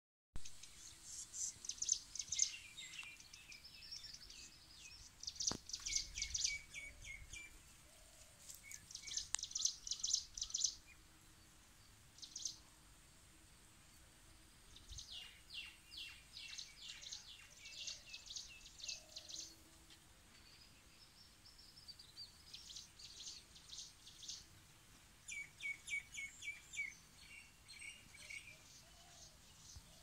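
Birds singing: repeated runs of rapid, high chirping notes, each run lasting one to three seconds, with short pauses between runs.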